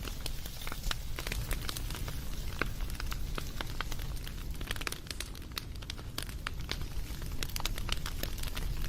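Wood campfire crackling: many sharp, irregular pops and snaps over a steady low rumble of burning.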